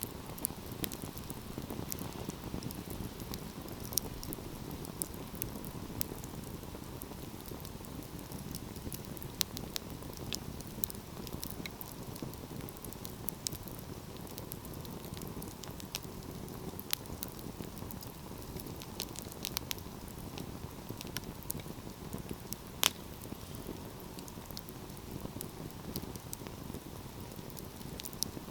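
Wood fire burning with a steady low rush of flames and irregular sharp crackles and pops of burning logs, one louder pop about 23 seconds in.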